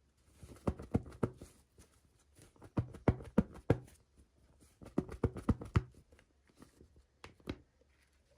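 Hands handling small plastic pieces and packaging: three quick bursts of clicks and taps, then a couple of single clicks near the end.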